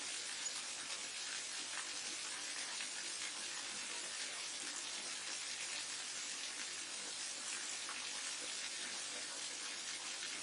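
Forest waterfall on a mountain stream, water rushing and splashing in a steady, even hiss strongest in the high range.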